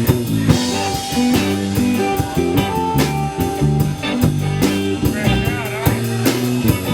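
Live band playing an instrumental passage: guitar over bass notes, with a drum kit keeping a steady beat.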